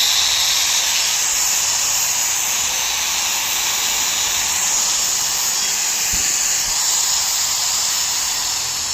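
Hikoki 4-inch angle grinder, fitted with a new field coil, running at full speed with no load, a steady high whine over a strong hiss. Its pitch begins to fall near the end as it starts to wind down.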